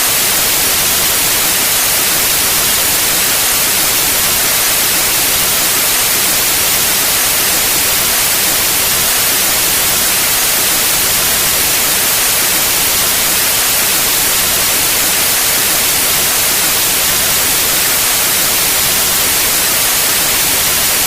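Steady synthetic white noise: a loud, even hiss with no change in level or pitch.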